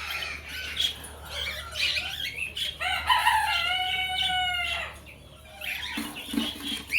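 Pet birds calling in an aviary: scattered short chirps, then one long, drawn-out call held for nearly two seconds starting about three seconds in.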